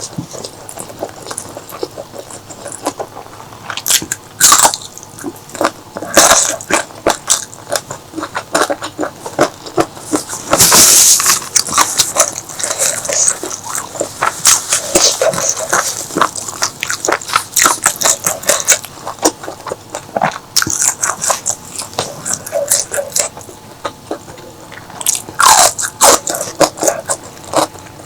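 Close-miked eating: a person chewing and biting through a meal of mutton curry, with a steady run of wet mouth clicks and smacks and a longer, louder burst of chewing noise about eleven seconds in.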